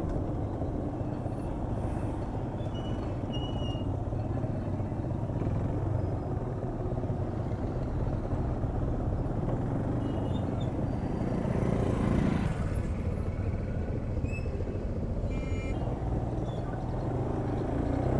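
Yamaha FZS single-cylinder motorcycle engine running steadily under way, with road and wind noise on the bike-mounted microphone.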